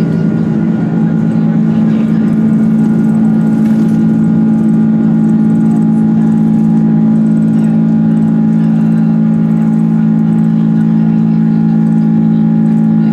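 Airbus A330-300's jet engines heard from inside the passenger cabin: a steady, loud hum with a low drone and a rushing noise that swells slightly over the first couple of seconds, then holds.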